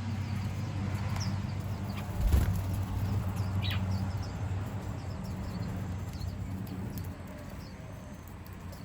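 Small garden birds giving short, sparse chirps over a steady low hum, with one falling call about three and a half seconds in and a dull thump about two seconds in.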